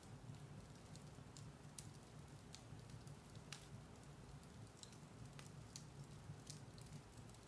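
Firewood burning in a fireplace: a soft, steady low rumble of the fire with scattered sharp crackles and pops, about one every second.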